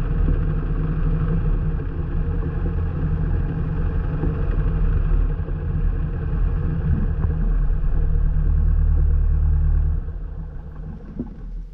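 Light airplane's piston engine running steadily, then dropping in level about ten seconds in.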